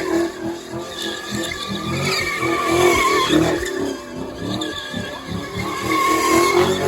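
Car engine held at high revs, its pitch wavering up and down, with tyres skidding and squealing on pavement, as in a car doing sideways stunts at a street meet.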